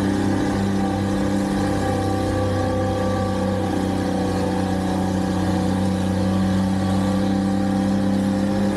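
Engine of snow-removal equipment running steadily at an even pitch, a continuous low drone with no revving.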